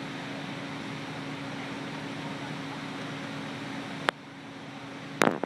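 A steady machine hum with hiss. A sharp click sounds about four seconds in, and a louder, short clatter comes near the end.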